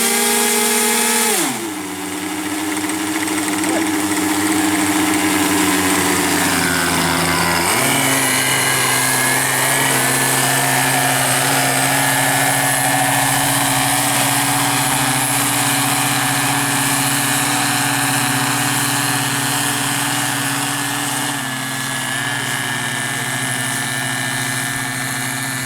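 Two Irvine 53 two-stroke glow engines of a twin-engine RC model aircraft running, throttled back about a second and a half in and again around eight seconds in, then holding a steady lower speed.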